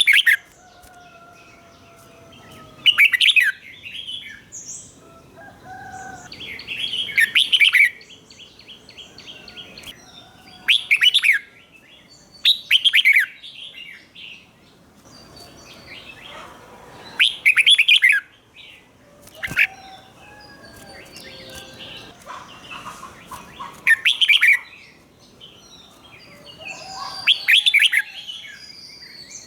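Red-whiskered bulbul singing loud, short, bright song phrases every two to four seconds, some coming in quick pairs: the doubled 'beun' style of song that Thai bulbul keepers train their birds on. Fainter bird calls and whistles carry on between the phrases.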